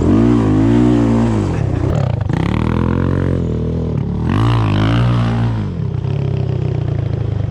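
Off-road vehicle engine under way, its pitch rising and falling three times as the throttle is opened and closed, with a hiss of wind or dirt at times over it.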